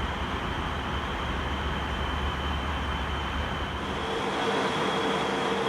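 Airbus A321 cabin noise in flight: a steady rush of engine and airflow noise with a constant high whine. About four seconds in the low rumble drops away and a steadier mid-pitched hum comes in.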